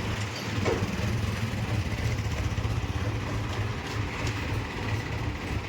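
Truck's diesel engine running steadily at low revs, an even low rumble.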